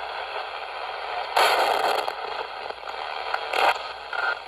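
Ghost box radio sweeping the AM band, giving a steady hiss of static. About a second and a half in comes a loud crackling burst of noise, and a shorter one follows near the end.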